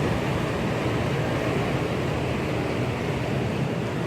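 Steady, even rumble and hiss aboard a car ferry getting underway from the dock, with no horn sounding.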